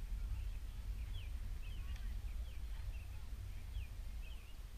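Birds chirping in short, quick calls over a steady low rumble of wind on the microphone.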